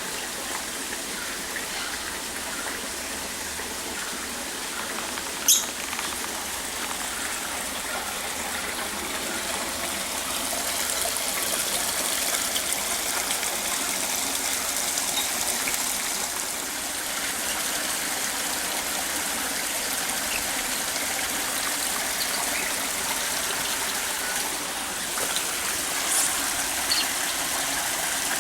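Steady rush of running water, with one sharp click about five seconds in and a couple of short high sounds near the end.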